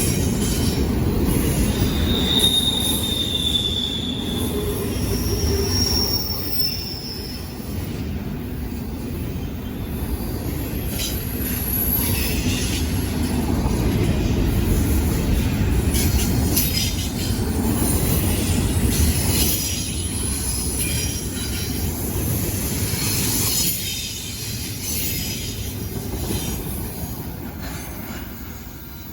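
Union Pacific train rolling past with a steady rumble and clatter of wheels on the rails. Brief high wheel squeals come about two seconds in and again around six seconds, and the sound fades toward the end as the train draws away.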